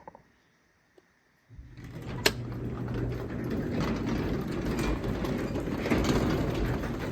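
A Craftsman 3/4 hp belt-drive DC garage door opener starts about a second and a half in and runs steadily, with a low hum, as the door rolls and rattles along its track. There is a sharp click just after it starts. The first second and a half is almost quiet, with a couple of faint clicks.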